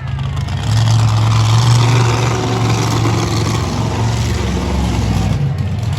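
Monster truck engine running loud and steady, getting louder about a second in.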